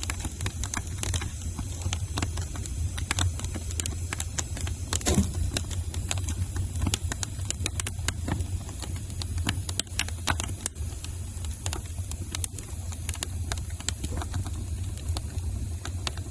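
Wood fire in a fireplace crackling: irregular sharp pops and snaps over a steady low rumble of the flames, with one louder pop about five seconds in.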